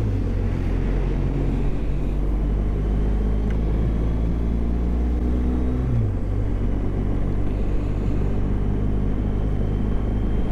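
BMW GS motorcycle engine running at a steady cruise, with wind and road noise, and a brief change in engine pitch about six seconds in.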